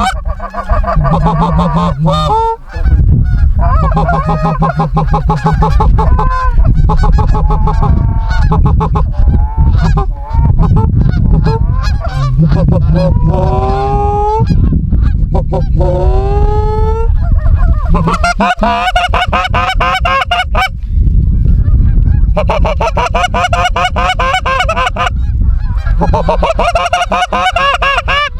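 A flock of geese calling, many honks overlapping into a continuous clamor, with a few drawn-out rising calls in the middle.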